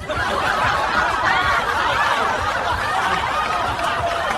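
A crowd of people laughing and chuckling together, many voices overlapping in a steady mass of laughter.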